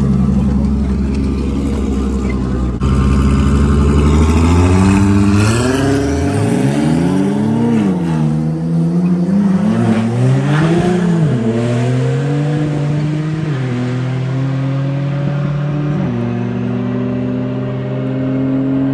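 Car engines at a roll race: first an engine running steadily, then about five seconds in engines accelerate hard, the pitch climbing and dropping back several times with the gear changes, before settling into a steadier note.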